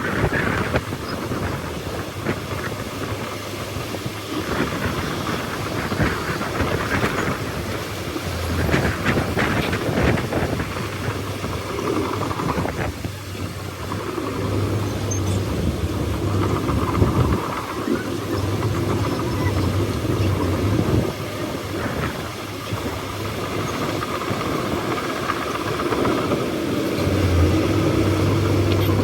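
Bulldozer's diesel engine working under load: a low drone that swells and eases, with rattling noise over it.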